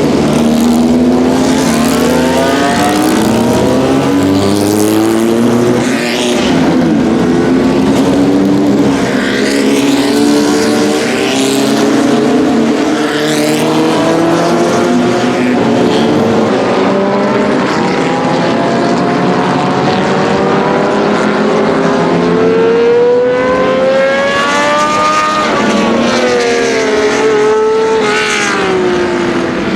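Several historic 1960s Formula One car engines running on track at once. Their high engine notes rise and fall as the cars accelerate and change gear. Near the end one engine climbs steeply in pitch and then drops away.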